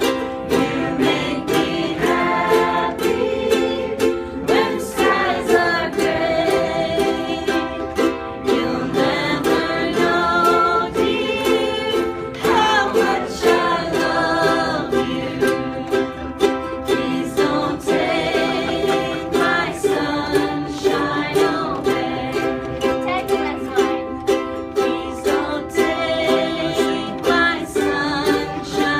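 Several ukuleles strummed together in a steady rhythm, with voices singing a melody over them.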